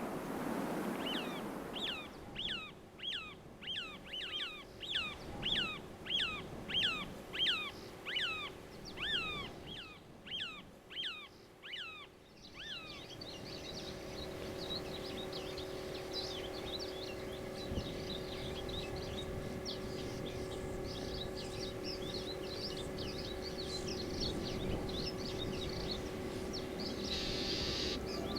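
A songbird singing a long series of downward-slurred whistled notes, about two a second, swelling and then fading over about ten seconds. It is followed by a fainter jumble of many high chirps over a steady low hum.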